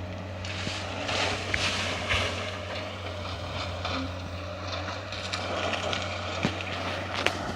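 Komatsu PC200F forestry excavator running, a steady low diesel hum with scattered sharp cracks and knocks, the strongest a little before the end.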